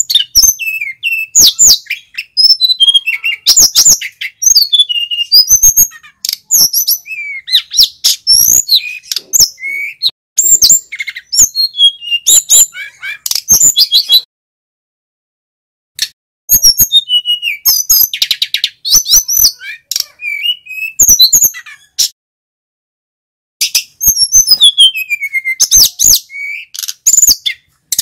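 Male sikatan gunung singing a rapid, varied song of high whistles and chirps, some sliding down in pitch. The song comes in long bursts broken by two pauses of about two seconds, one near the middle and one about three quarters through.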